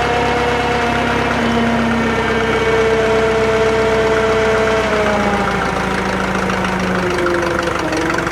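Drott 85RM2 crane's engine running steadily while the crane works a lift; its pitch drops about five seconds in and again about seven seconds in.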